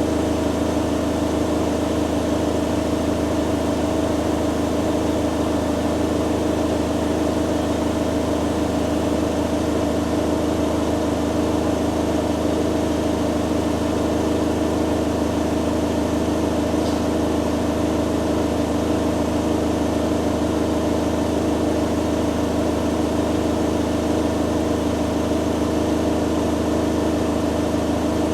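Two front-loading washing machines, a Hoover Dynamic Next DXA610IW3 and a Beko Pro AquaTech WX94044EO, running their spin cycles together: a steady motor hum and drum whir that holds an even pitch throughout.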